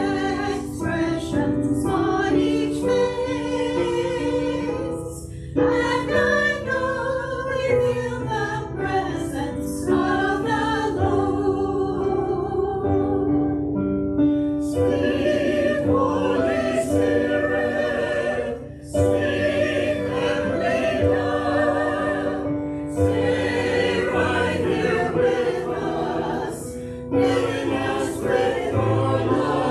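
A choir sings a hymn over instrumental accompaniment in phrases of held notes, with short breaths between phrases about five and nineteen seconds in.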